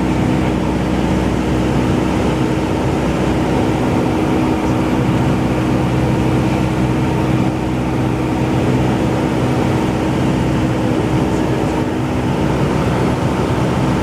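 Cessna 172's piston engine and propeller running steadily at a constant power setting in cruise flight.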